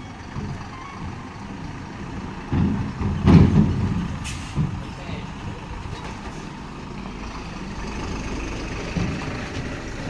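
Heavy truck's diesel engine running, a low rumble that surges loudest around three to four seconds in, followed by a brief sharp hiss or click.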